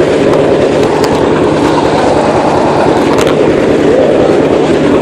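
Tractor engine running loud and steady, close by.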